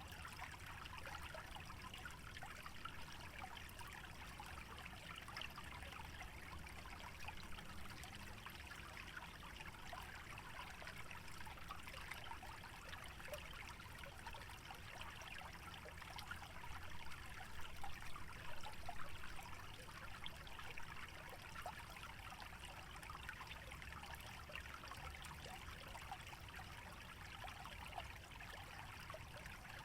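A small stream trickling and babbling steadily, with a low rumble beneath that is typical of wind. The water grows a little louder for a couple of seconds just past the middle.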